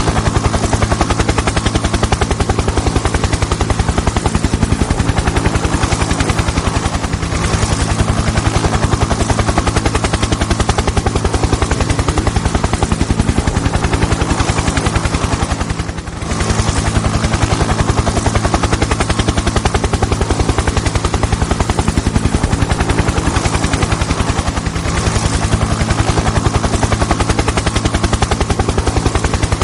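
Toy helicopter making a steady, very rapid chopping clatter over a low hum. It dips briefly about halfway through.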